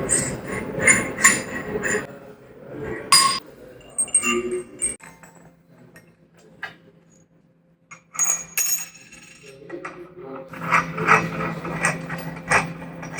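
Metal clinks and knocks, as of steel parts and tools being handled during assembly. They go nearly quiet for a few seconds mid-way, then pick up again over a low steady hum.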